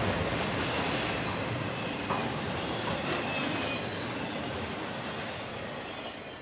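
Norfolk Southern freight train's cars rolling past on the rails, with a faint wheel squeal, the sound fading steadily as the train moves away.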